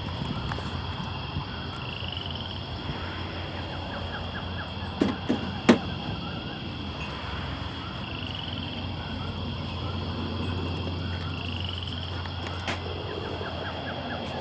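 Outdoor background with a short rising chirp that repeats every four to five seconds over a steady low hum. A few sharp knocks come about five seconds in, the last and loudest just before six seconds.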